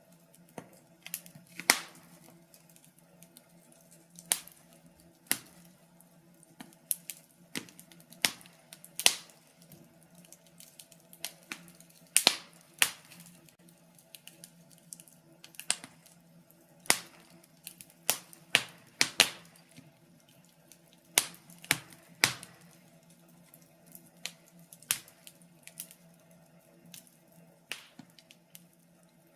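Wood fire crackling, with irregular sharp pops and snaps, some single and some in quick clusters, over a faint steady low hum.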